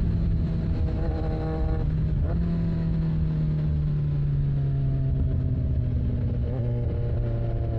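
Kawasaki Z1000's inline-four engine running through a full TOCE exhaust. There is a short throttle blip about two seconds in, then the engine note slowly drops in pitch.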